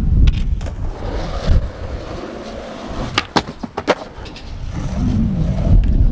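Skateboard wheels rolling on concrete, then a quick run of sharp clacks from the board a little past the middle. Wind buffets the camera microphone with a low rumble at the start and near the end.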